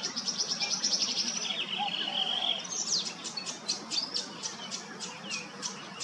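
Tawny grassbird singing: a fast, high rattling trill, then a lower buzzy trill, followed by a run of short, sharp notes at about four a second.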